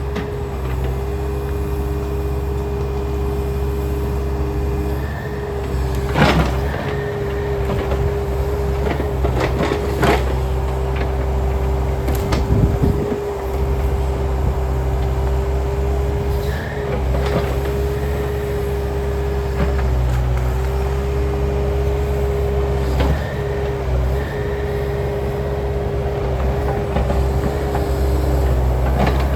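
Takeuchi excavator's diesel engine running under load with a steady hydraulic whine as it works a stubborn tree out of the ground. There are a few sharp cracks, about six and ten seconds in.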